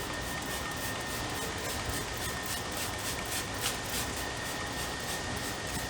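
Wheel cleaner being sprayed onto the car's wheels in a series of short, irregular hissing sprays, over a steady mechanical hum with a thin high whine.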